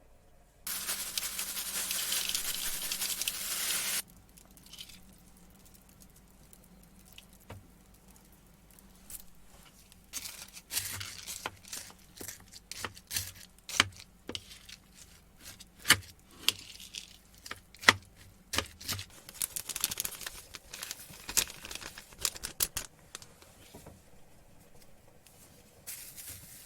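Wrapping material, foil or plastic wrap, handled while food is wrapped: a steady rushing tear for about three seconds near the start, then a long run of crinkles and small clicks.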